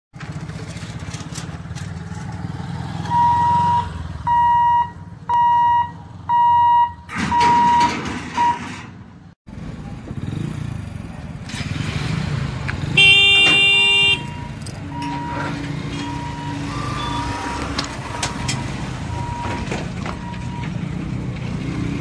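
Steady rumble of a moving train or heavy vehicle. Early on, about five short beeps on one high tone sound in a row; after a sudden break, a loud horn sounds for about a second, partway through.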